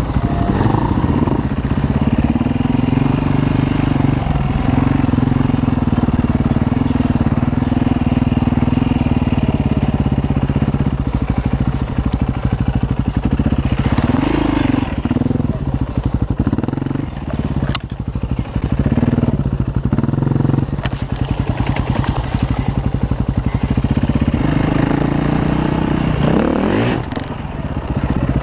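Single-cylinder four-stroke KTM enduro dirt bike running under way, holding a steady low throttle for the first several seconds. After that the revs rise and fall repeatedly as the throttle is opened and closed, with a couple of brief dips near the middle and again near the end.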